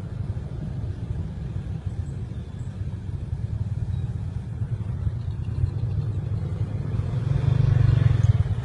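Steady low rumble of a road vehicle on the move, heard from on board, swelling louder near the end.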